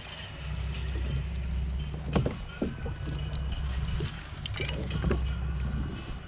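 Sea kayak on open water: a steady low rumble with water moving against the hull and scattered short knocks and splashes, the loudest about two seconds in.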